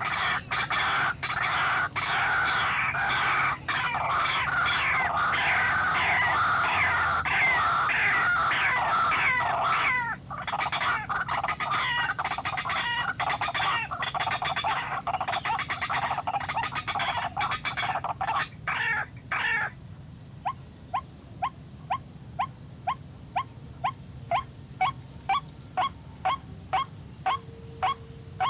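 White-breasted waterhens (ruak-ruak) calling: a dense, overlapping chorus of harsh falling calls that stops suddenly about two-thirds of the way in, followed by a regular series of short calls about two a second.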